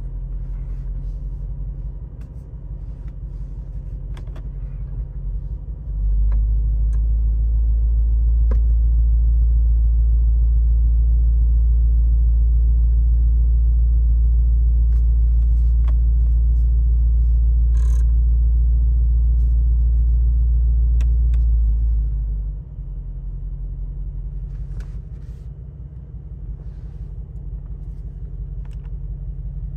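Mercedes-AMG G63's 4.0-litre twin-turbo V8 idling, a steady low rumble heard from inside the cabin. It grows louder about six seconds in and drops back about two-thirds of the way through, with a few faint clicks on top.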